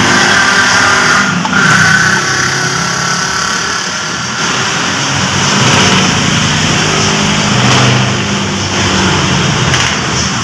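Car engine running steadily, its pitch drifting up and down a little.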